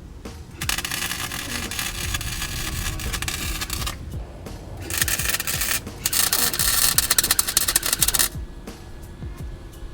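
Wire-feed welder laying beads on a steel exhaust pipe: a crackling hiss in three runs, the first about three seconds long, then a short one, then one of about two seconds, with brief pauses between as the trigger is released.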